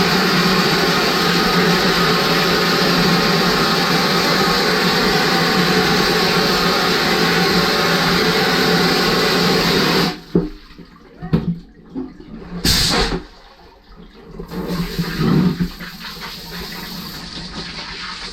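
Vapour blasting cabinet spraying a wet abrasive slurry with compressed air onto a Kawasaki 500 engine block: a loud, steady, watery hiss that cuts off about ten seconds in. After that come a few short bursts of spray and knocks.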